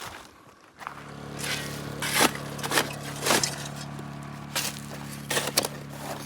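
A steady machine hum starts about a second in and keeps on, with a series of short scrapes and knocks over it.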